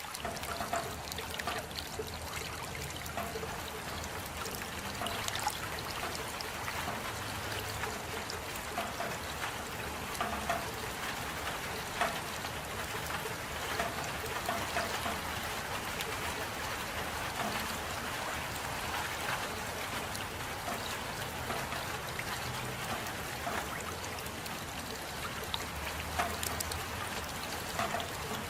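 Steady rain with water trickling and dripping, many small drop ticks scattered through an even wash of noise.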